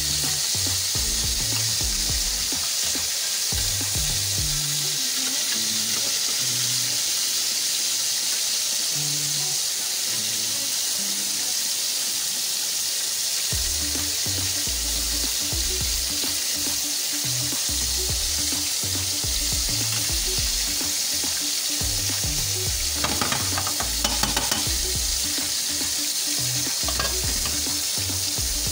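Mutton chops in masala sizzling as they fry in a pan, with a steady hiss throughout, stirred with a spatula that clinks and scrapes against the pan about three quarters of the way in. Background music with a low bass line plays underneath.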